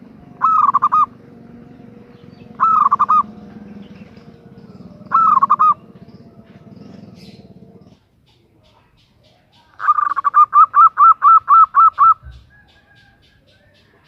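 Female zebra dove (perkutut) calling: three short cooing phrases a couple of seconds apart, then after a pause a faster run of about ten quick notes.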